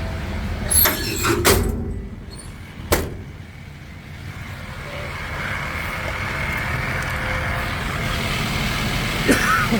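Three sharp metal clunks in the first three seconds, from the service truck's toolbox compartment doors and shelf, over the steady low running of the truck's idling engine.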